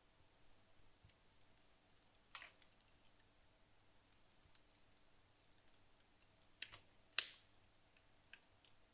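Wood logs burning in a fireplace, crackling with sparse sharp pops: one about two seconds in, a quick pair before the loudest pop about seven seconds in, and a small one near the end.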